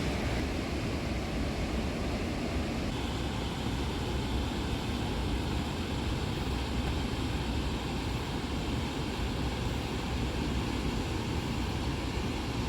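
Steady rushing noise of a flood-swollen river running high, with a constant low rumble.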